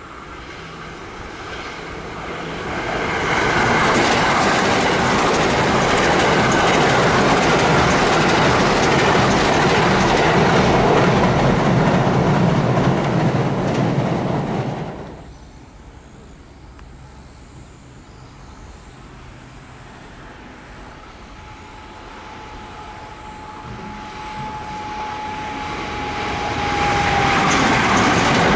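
An electric limited express train runs past at speed, its wheels on the rails loud for several seconds before the noise cuts off suddenly about halfway through. After a quieter stretch with a faint steady tone, a JR West 521 series electric multiple unit approaches, and its running noise builds near the end.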